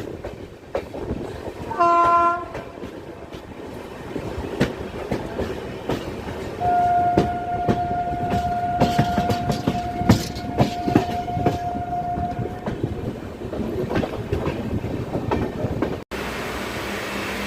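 Indian Railways train running on the track, with wheels clicking over rail joints. A short horn blast sounds about two seconds in, then a long steady horn for about six seconds. Near the end the sound cuts abruptly to a steady hum.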